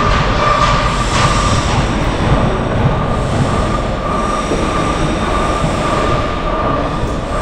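Steady, loud construction machinery noise: a constant rumble with a high, steady whine throughout.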